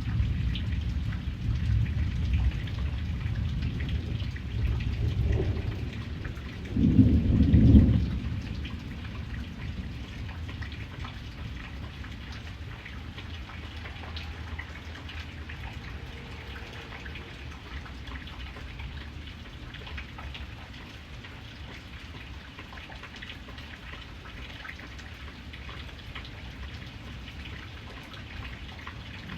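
Steady rain with thunder rumbling low through the first several seconds, its loudest peal about seven seconds in, then dying away to rain alone.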